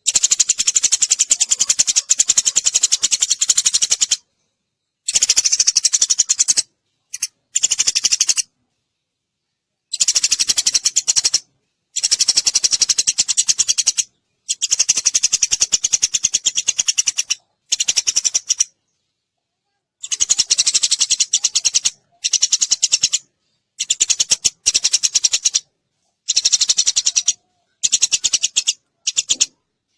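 Sparrow decoy calls: bursts of rapid, high chirping, each from about a second to four seconds long, broken by sudden dead silences as in an edited loop played to lure birds.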